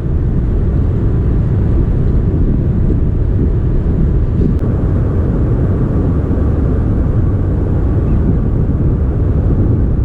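Strong wind buffeting the GoPro Hero 5's built-in microphone: a steady, loud low rumble with no pauses.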